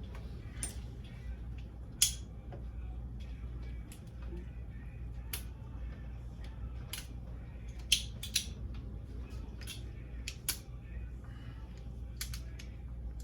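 Scattered light clicks and taps of hand tools and small parts being handled, with sharper clicks about two seconds in and again near eight seconds, over a low steady hum.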